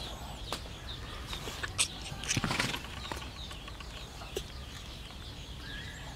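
Small birds chirping in the background, short high chirps repeating throughout, with scattered clicks and a brief louder rustle about two and a half seconds in.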